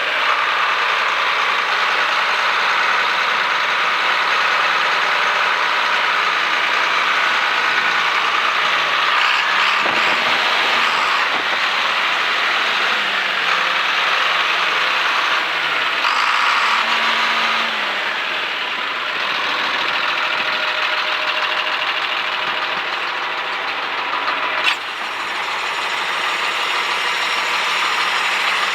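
A 1983 John Deere 4650 tractor's six-cylinder turbo diesel runs steadily, with its pitch wavering briefly a couple of times around the middle. There is a single sharp knock near the end.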